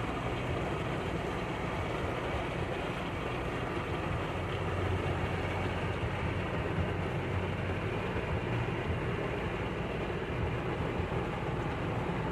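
Steady rushing noise of a heavy downpour and floodwater, with a low rumble of vehicles underneath.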